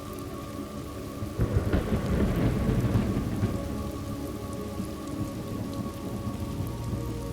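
Steady rain with a roll of thunder that breaks about a second and a half in and rumbles for several seconds before easing off.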